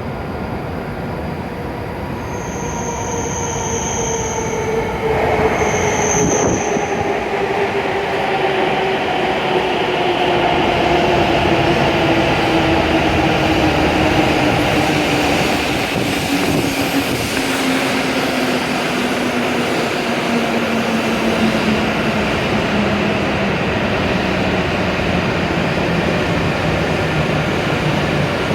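W7 series Shinkansen train pulling in and braking, its motor whine falling slowly in pitch as it slows. Two brief high squeals come in the first few seconds.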